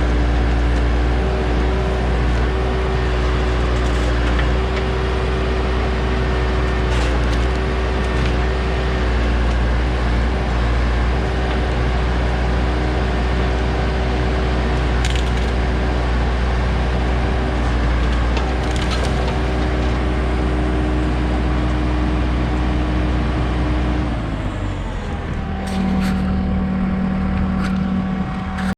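Diesel engine of a JCB backhoe running steadily at working revs, with a deep hum and a steady engine note; about 24 seconds in the note drops and settles into a different, steadier tone.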